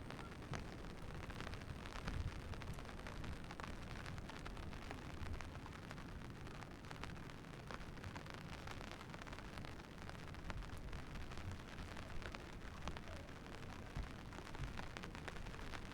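Steady rain falling, with many small drop ticks and a low rumble underneath.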